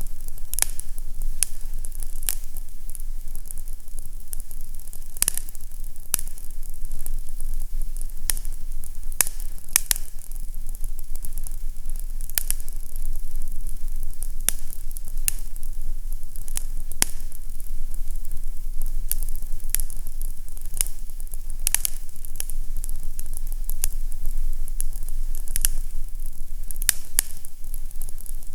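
Fireplace fire crackling: irregular sharp pops and snaps, several a second at times, over a soft hiss and a steady low rumble.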